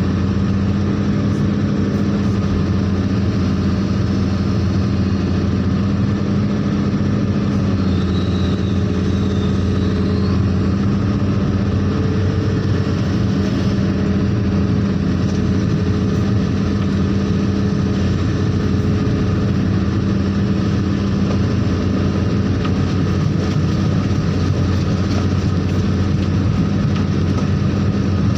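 Large truck-type diesel engine running steadily at a constant speed, with a deep even hum.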